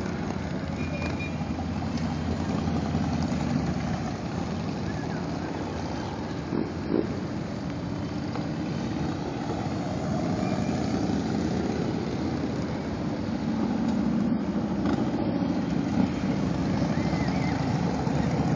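Steady low rumble of vehicle engines running, growing a little louder over the last few seconds.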